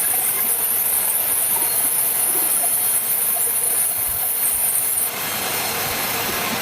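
Sawmill saw cutting through a log: a steady, loud, high hiss that stops about five seconds in, leaving a duller running noise.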